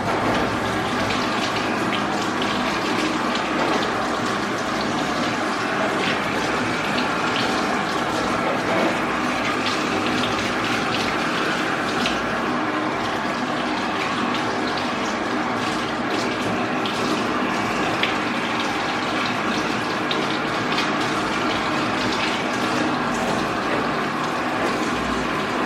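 Water running steadily from a sprayer over a dog being bathed in a grooming tub, with scattered small clicks and knocks.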